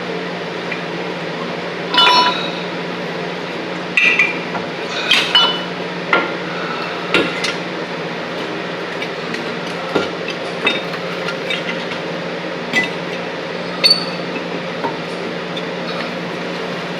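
Irregular metallic clinks and knocks of hand tools and metal parts being handled and set down, some ringing briefly, over a steady low hum.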